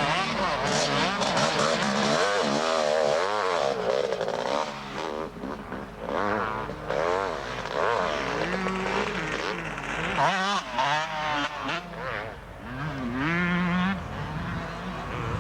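Several motocross motorcycle engines revving at once, their pitch repeatedly rising and falling as the riders open and close the throttle.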